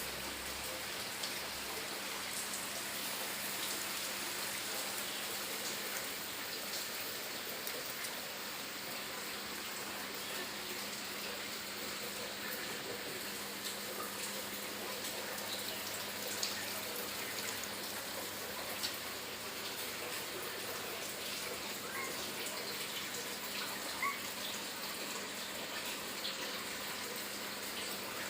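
Steady, even hiss with a faint low hum underneath and a few faint clicks.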